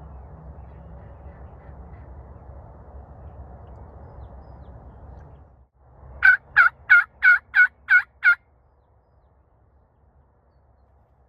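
A series of seven loud turkey yelps, about three a second, each note rising and falling in pitch. They follow a few seconds of steady low background noise.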